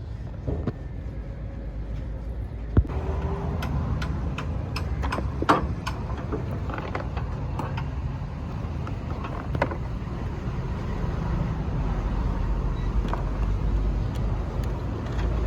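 Steady low rumble of vehicle noise in the background, swelling toward the end, with scattered sharp clicks and knocks from handling parts at the fuse box. The two loudest knocks come about three and five and a half seconds in.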